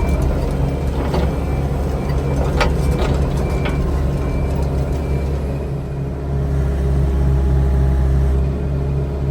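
Diesel engine of heavy earth-moving equipment running steadily, with a few sharp metal clanks and short high beeps in the first few seconds. It is working to pull out a skid steer that is stuck.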